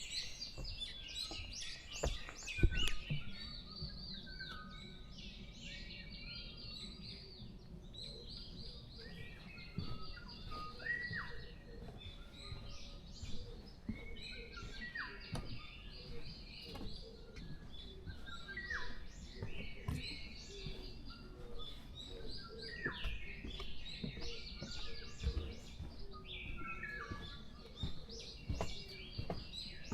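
Dawn chorus of several forest birds singing at once: dense overlapping chirps and trills, with clear down-slurred whistles recurring every few seconds. A single sharp knock stands out about two and a half seconds in.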